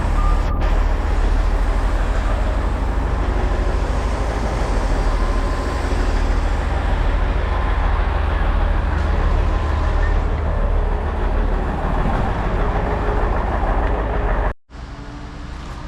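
Concrete boom pump truck's diesel engine running steadily under load, a loud, deep rumble. About three quarters of the way through it cuts off abruptly and a quieter engine rumble follows.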